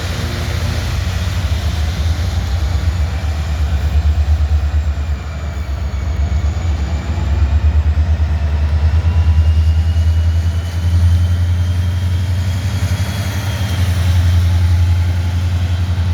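Train running past with a heavy, steady low rumble and a faint high whine that wavers up and down in pitch.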